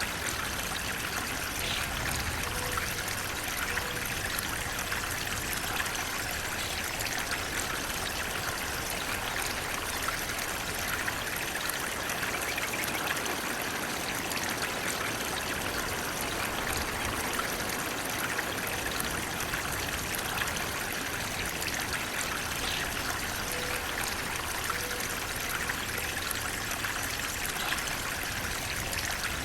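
Flowing water running steadily, an even rushing hiss with no let-up.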